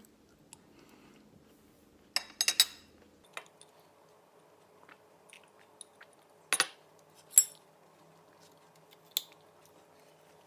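A few sharp clinks and taps of cutlery against dishes: a quick cluster about two seconds in, then single clinks around six, seven and nine seconds.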